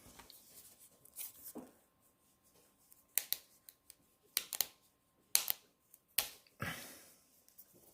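Craft supplies being handled on a desk, likely green coloring markers being picked out: a series of short clicks and rustles, about eight in all, spread unevenly.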